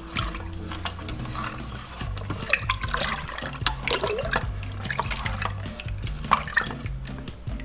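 Soup being stirred with a spoon in an Instant Pot's inner pot: liquid swishing and sloshing, with occasional light clicks of the spoon against the pot.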